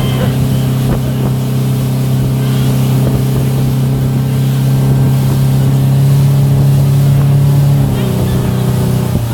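Motorboat engine running steadily at speed while towing a tube, with the rush of wind and water. The engine note changes slightly about eight seconds in.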